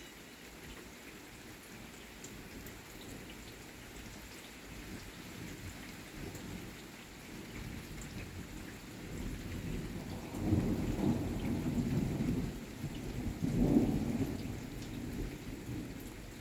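Steady rain falling, with a long roll of thunder building about halfway through. The thunder swells to two peaks and then eases off near the end.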